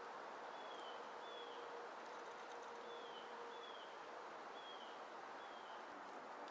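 A bird calling: six short, high, down-slurred notes, mostly in pairs, over a faint steady background hiss.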